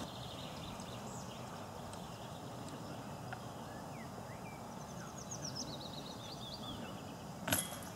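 Quiet outdoor ambience with birdsong: a few short chirps, then a bird singing a quick descending run of high notes about five seconds in. A single sharp clack near the end.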